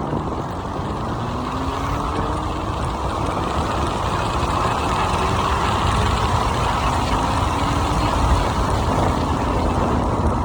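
Wind rushing and buffeting over the microphone of a rider on an electric scooter at speed, a steady loud rush. A faint engine note rises in pitch several times, from the motorcycle being chased accelerating.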